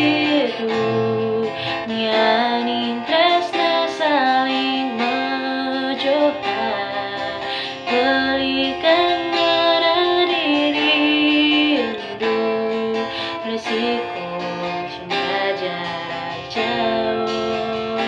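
A woman singing with plucked acoustic guitar accompaniment, holding long notes that slide between pitches.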